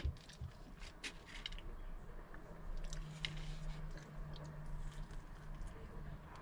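A person chewing and biting food close to the microphone, with scattered short crunchy clicks. A steady low hum comes in about three seconds in.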